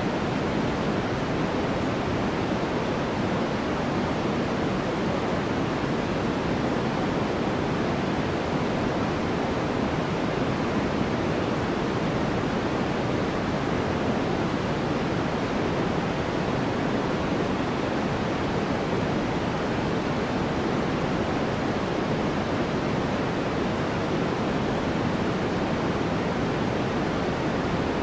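Steady generated noise played as white noise, an even hiss that never changes. It leans toward the lower pitches, closer to pink noise than flat white noise.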